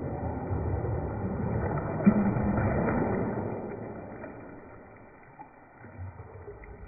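Bathwater sloshing in a tub as waves are made against a floating Lego boat, building for a couple of seconds and then dying away.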